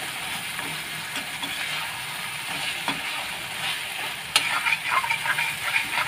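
Soya chaap frying in oily onion-ginger-garlic masala in a metal kadai, sizzling steadily as it is stirred with a perforated metal spoon. A little over four seconds in there is a sharp knock, then a run of quick scrapes and clinks of the spoon against the pan.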